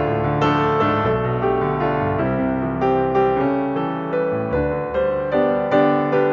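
Background piano music, a gentle melody of evenly paced notes over sustained chords.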